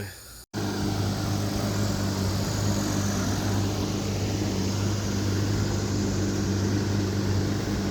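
Mercury outboard motor running steadily at an even pitch, starting after a brief dropout about half a second in.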